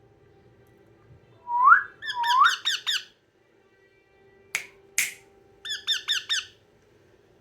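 Yellow Indian ringneck parrot calling: two rising whistles followed by a quick run of sharp chirps, then another run of about five chirps near the end. Two sharp clicks come in between, around the middle.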